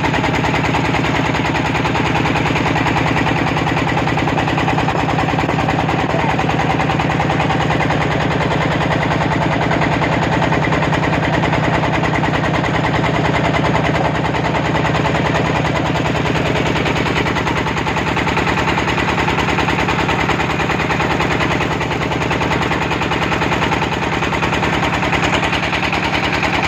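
Boat engine running steadily close by, a rapid, even chugging that does not change in speed.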